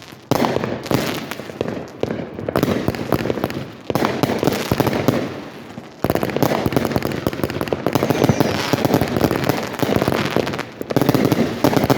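Aerial fireworks going off one after another: about five sudden loud bangs, each followed by seconds of dense crackling, which runs almost without a break through the second half.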